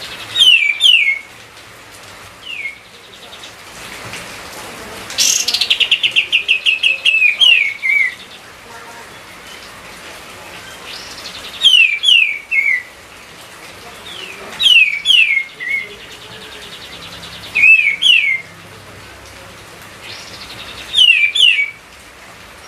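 Kapas tembak songbird singing loudly in short phrases of two to four quick downward-sliding whistles, repeated every three seconds or so. About five seconds in, one longer run of a dozen rapid notes lasts some three seconds.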